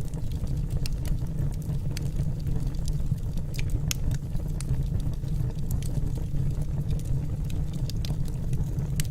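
Wood fire burning in a fireplace: a steady low rush of flames with scattered sharp crackles and pops from the burning logs, a few each second.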